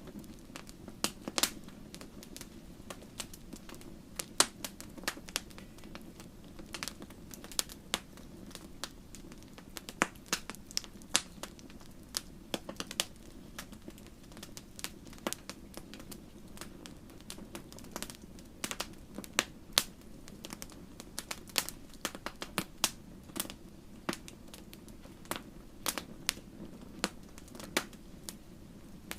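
Wood fire crackling in a fireplace: irregular sharp pops and snaps, several a second, over a low steady rush of flame.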